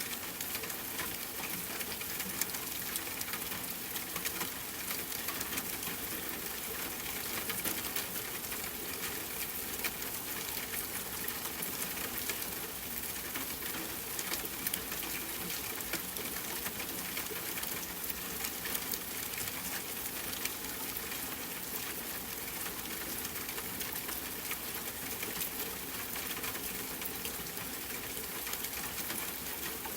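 Steady rain falling, a constant even hiss, mixed with a campfire crackling: many small sharp pops and snaps scattered irregularly throughout.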